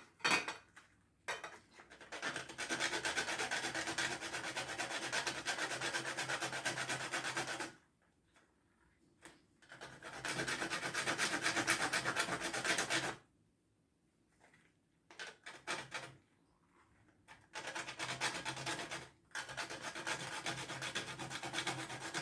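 Whole fresh nutmeg being grated: fast, even rasping strokes in runs of a few seconds each, broken by short pauses.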